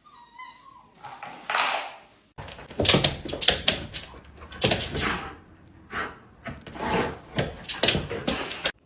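A dog whimpers briefly, then a run of loud, sudden knocks and bangs.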